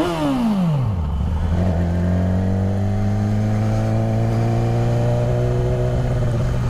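Sport motorcycle's engine heard from the rider's seat: the revs fall away over the first second as the throttle is rolled off, then from about two seconds in it runs at a steady, moderate throttle, its pitch rising and easing slightly as the bike cruises.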